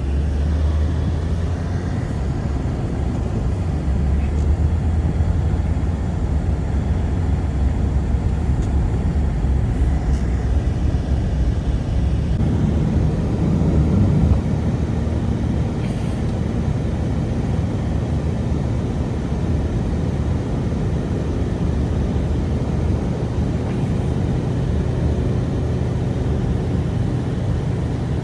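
Strong blizzard wind blowing steadily, a deep rumbling noise whose tone shifts about twelve seconds in.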